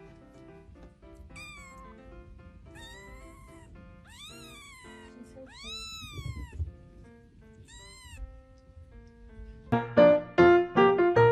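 Domestic cat meowing five times, each call rising and then falling in pitch, over faint background music. Loud piano music starts near the end.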